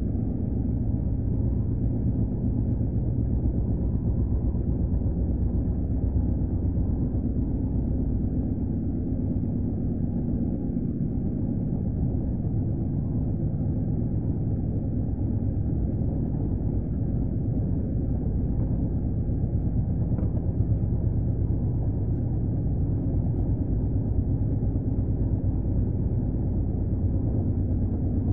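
Passenger train running at speed: a steady low rumble of wheels on rails, heard from inside the coach.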